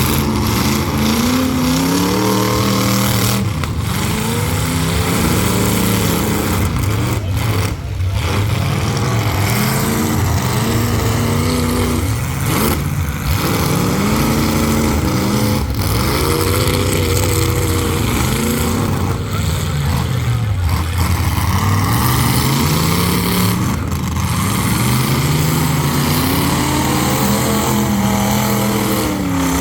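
Several full-size demolition derby cars' engines revving hard and dropping back again and again, their pitch rising and falling every few seconds as the cars accelerate and back up.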